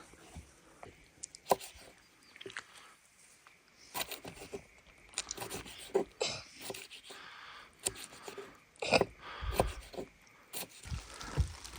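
Irregular knocks, clicks and short scrapes, as of objects being handled and set down, with no steady rhythm.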